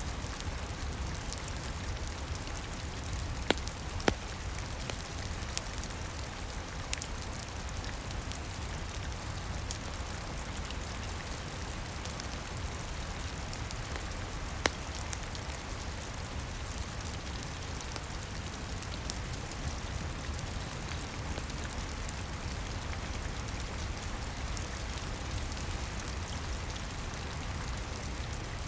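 Steady rain falling with a low rumble beneath, and a few sharp pops from a crackling wood fire: two close together a few seconds in and another about halfway.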